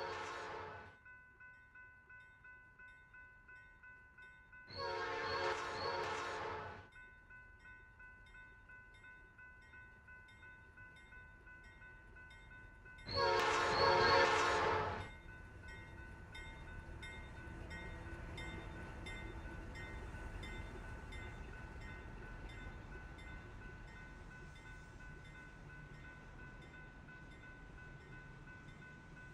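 Freight locomotive horn of NS AC44C6M 4452 sounding: a chord of several tones, with one blast ending just after the start and two more blasts of about two seconds each around five and thirteen seconds in. A faint rapid ticking runs between the first blasts, and after the last blast the low rumble of the locomotive and its loaded train grows and holds.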